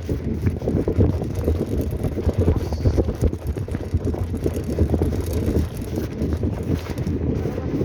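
Wind rumbling on the microphone of a bicycle in motion, with continual small knocks and rattles from the bike jolting along the road.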